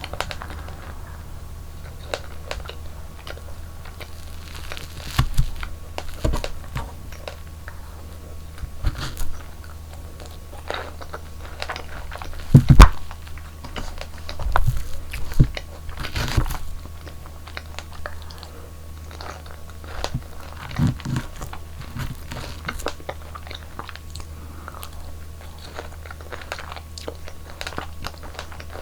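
Close-miked eating sounds of a person biting and chewing strawberries and strawberry cream cake. Irregular wet bites and crunches come and go over a steady low hum, and the loudest bite falls about halfway through.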